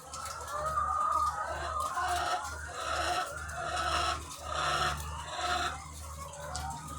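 A large flock of egg-laying hens clucking and calling together, with a run of louder, repeated calls in the middle, over a steady low hum.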